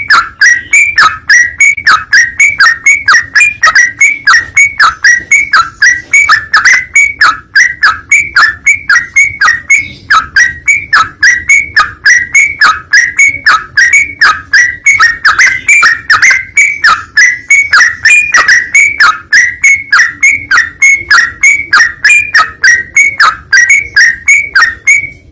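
A bird's call repeated in a fast, very regular string of short, sharp chirps, about three a second, each dropping quickly in pitch, loud and unvarying throughout.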